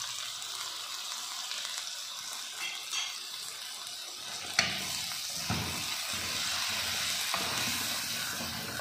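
Chicken pieces and chopped onion sizzling in hot oil in an aluminium pot as a wooden spoon stirs them, with a sharp tap about halfway through and a few softer knocks later.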